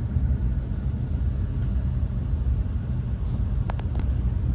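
Steady low rumble of a Renfe class 130 (Talgo 250) train running, heard on board, with two short clicks a little under a second before the end.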